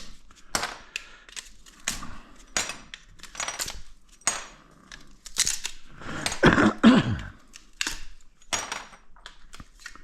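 Hand-stripping scrap copper tubing: a run of sharp metallic snips and clicks from cutters and metal, with a longer, louder scrape about six and a half seconds in as a tube is pulled, its pitch falling.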